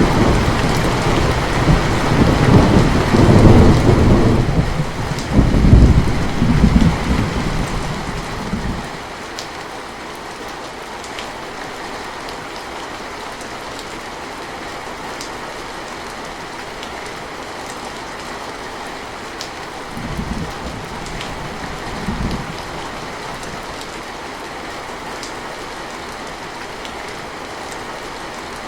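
Steady rain falling with thunder. A long rolling rumble with two loud peaks dies away about a third of the way through, leaving the rain alone, and two short low rumbles come later.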